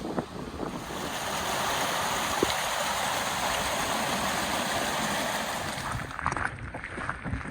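Steady rushing water from a waterfall and its stream, swelling about a second in and easing off near the end, with wind buffeting the microphone.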